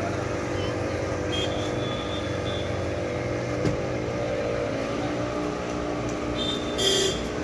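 An engine running steadily at a constant speed, with a few short high chirps over it.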